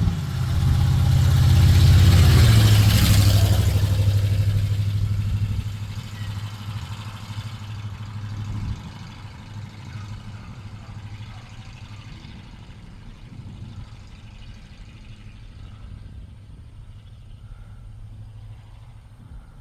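A vehicle engine running with a steady low hum, under a loud rushing swell about two to four seconds in that dies away over the next few seconds, leaving the hum fainter.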